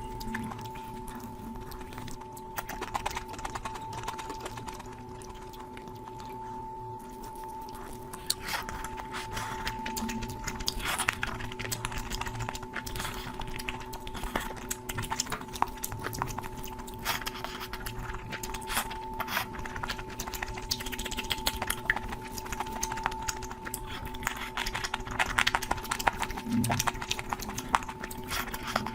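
Close-miked eating sounds from a curry meal: many short wet clicks and crackles of chewing, over a steady hum.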